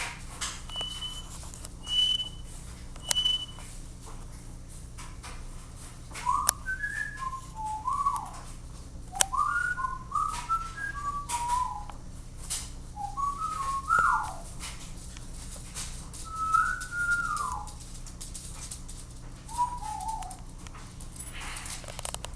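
Whistling: short clear notes, each sliding up or down, in quick clusters from about six seconds in. Three short high steady tones about a second apart come near the start.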